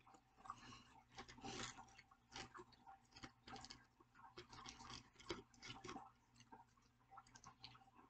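Faint chewing of fried popcorn shrimp: soft irregular crunches and small wet mouth clicks.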